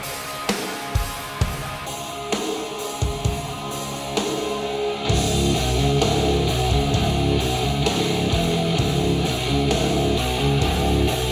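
Recorded music played through a studio monitor loudspeaker: spaced drum hits open it, and about five seconds in the full band with bass and guitar comes in, louder and denser.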